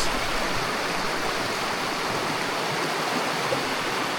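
Stream running, a steady, even rush of water.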